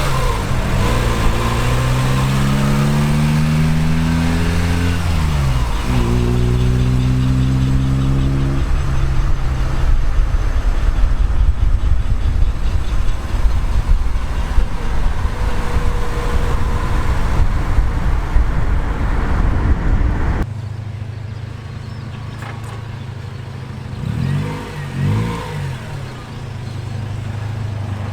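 Honda Civic EG6's B16A VTEC four-cylinder engine accelerating: it revs up, drops at a gear change about five and a half seconds in, and climbs again, then runs on with steady road noise. About twenty seconds in the sound cuts abruptly to a quieter engine note with a couple of short revs near the end.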